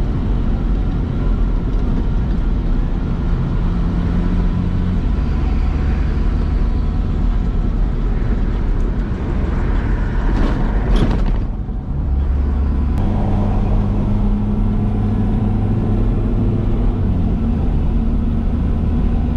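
Tow truck engine running while driving, with steady engine tones that shift pitch a few times as it changes gear. A brief swell of noise comes about ten seconds in.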